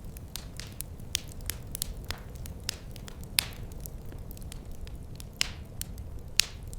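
Wood fire in a fireplace crackling, with irregular sharp pops over a low steady rumble of the flames; a few louder pops stand out about halfway through and near the end.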